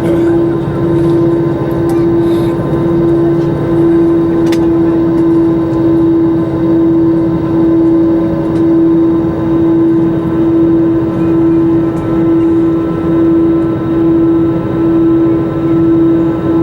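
Airliner cabin noise in flight: a steady rushing hum with a strong droning tone that swells and fades in a slow, regular pulse.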